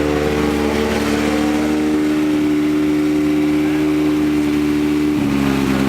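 Car engine running at steady revs while driving, with no speech over it; the engine note drops a step about five seconds in, as the revs fall.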